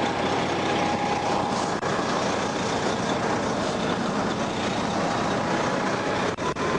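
Steady noise of highway traffic passing close by.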